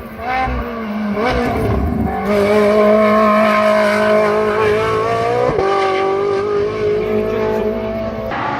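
Ferrari 458's naturally aspirated V8 running hard at high revs, its note climbing slowly under acceleration. About five and a half seconds in the pitch drops sharply at an upshift, then holds high again.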